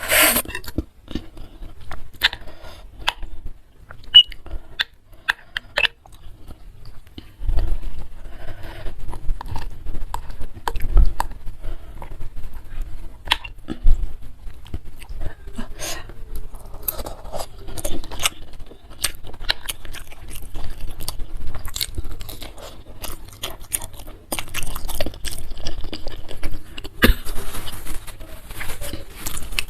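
Close-miked chewing and wet mouth clicks of someone eating bakso meatball soup with noodles, many sharp little clicks throughout, with a few dull low thumps.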